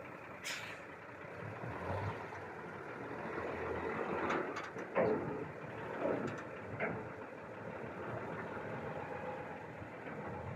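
Truck engine running steadily at idle, with a few short sounds over it near the middle.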